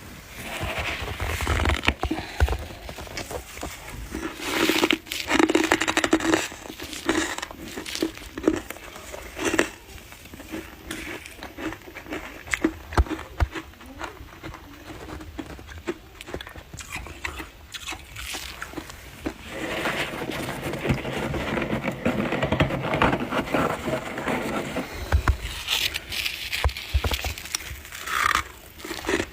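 Close-miked biting and chewing of humidifier frost, a soft, crunchy build-up of freezer frost, heard as bursts of crisp crackling crunches.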